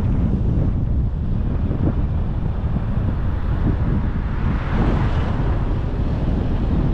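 Low, steady rumble of wind buffeting the microphone on a moving car, mixed with the car's road noise, with a brief swell of hiss about five seconds in.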